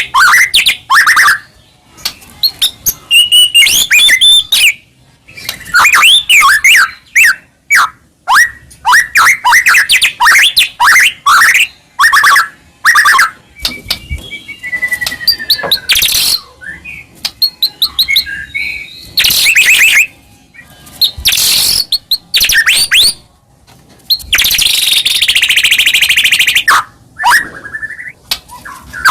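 White-rumped shama (murai batu) singing loudly and continuously: rich whistles and fast chirping phrases broken by short pauses, with a harsh buzzing rattle about three seconds long near the end.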